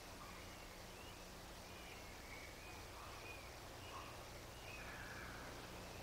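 Faint, thin bird chirps, short and high, repeating every half second or so over a low steady hum.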